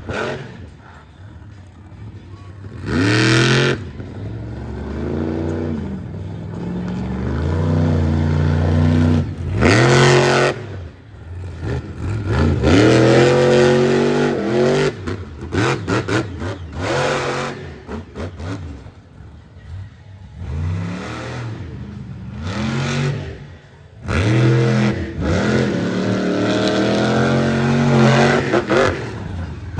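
Monster truck engine revving hard and repeatedly, its pitch surging up and falling back many times as the driver works the throttle, with a few short noisy crashes among the revs.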